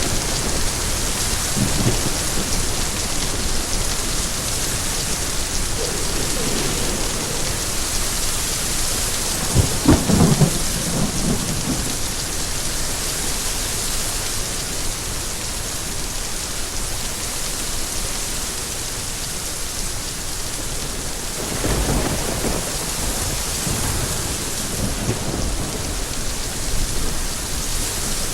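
Steady rain falling, an even hiss, with low rolls of thunder rumbling under it several times; the loudest roll comes about ten seconds in.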